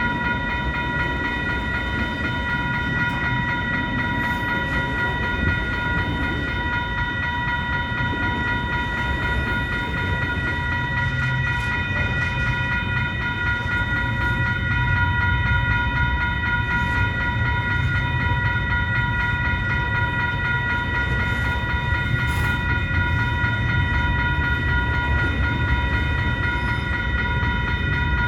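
CN mixed freight train's cars rolling past with a steady rumble, joined by a steady high-pitched whine of several tones. It gets a little louder about halfway through.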